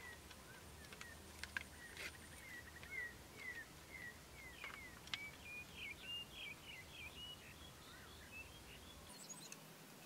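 Faint wild birdsong: a string of short chirps sliding downward, followed about halfway through by a quicker run of higher, flickering notes. A few sharp clicks sound in the first half.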